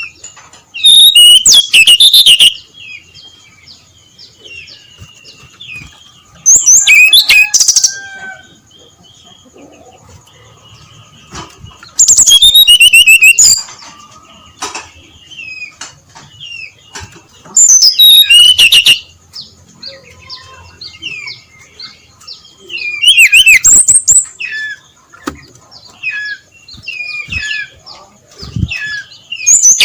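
Brown-chested jungle flycatcher (sikatan rimba dada coklat) singing: loud, rapid high song phrases of about a second and a half, repeated six times at intervals of five or six seconds, with softer twittering notes between them.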